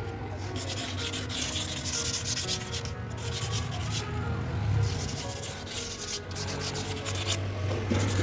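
Sandpaper rubbed by hand in repeated rasping strokes, with short pauses, over the painted steel of a fridge door to take off flaking paint. A steady low hum runs underneath.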